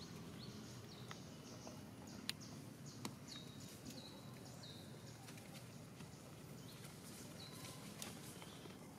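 Faint outdoor background with a bird chirping over and over: short high notes that drop in pitch, several in a row. Two sharp clicks stand out a little over two and three seconds in.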